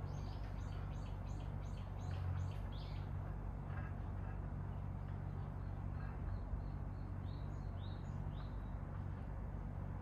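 Songbirds singing: a quick series of about six short, high, descending notes in the first three seconds, then a run of short high notes and a few sweeping calls in the second half, over a steady low hum.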